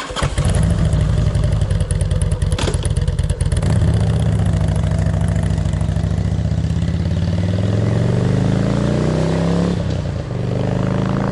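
Harley-Davidson motorcycle's V-twin engine running and being revved, with a few knocks early on. Its pitch climbs over about four seconds, drops, then climbs again.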